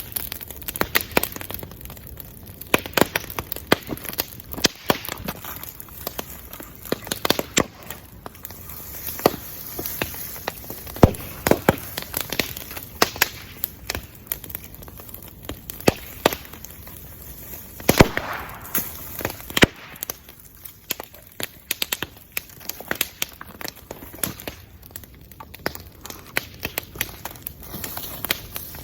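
Bonfire of burning wood crackling, with sharp, irregular pops and snaps. A louder cluster of pops comes about two-thirds of the way through.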